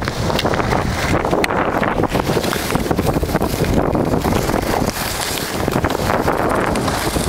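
Wind rushing over the camera's microphone as it moves downhill on skis: a loud, steady noise that never lets up.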